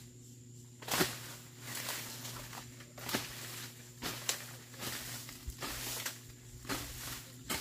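A weeding hoe chopping into soil and weeds in irregular strikes, about one every second or so.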